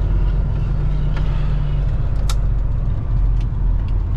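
Semi-truck diesel engine running steadily at low speed, a deep even drone, with a few light clicks over it, one sharper a little past halfway.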